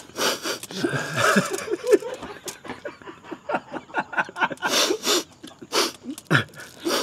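People stifling laughter: short snickers, snorts and breathy bursts of giggling, with scattered short clicks in between.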